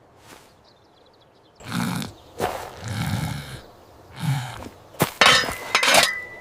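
Three low growling sounds, then a loud crash of something breaking, several sharp hits close together, ending in a short ringing tone.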